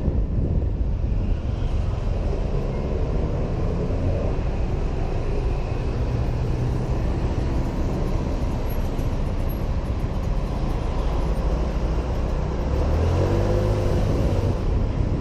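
Honda PCX 125 scooter's single-cylinder engine running underway, with wind rumble on the helmet-mounted microphone and road traffic around it. The engine note rises and falls briefly near the end.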